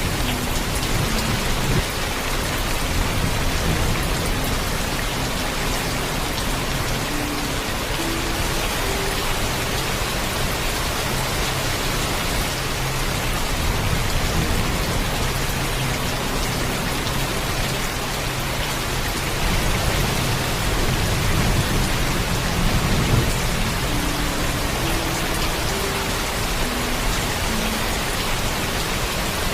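Steady heavy rainfall with a low thunder rumble that swells about twenty seconds in.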